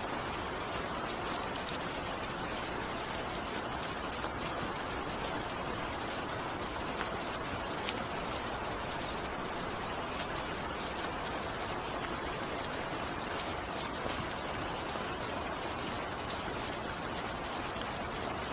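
Steady rain: an even hiss dotted with the sharp ticks of individual drops.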